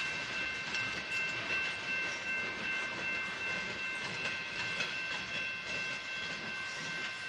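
Freight train's empty flatcars rolling past close by: steady wheel rumble with frequent clicks of wheels over the rail joints, and a steady high-pitched ringing tone over it.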